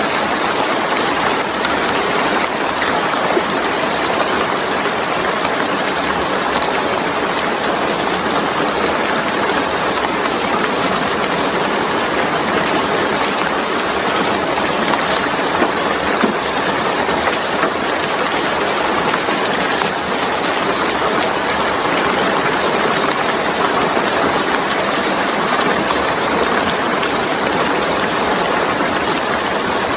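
Steady, loud rain falling, an even hiss of many drops with no let-up.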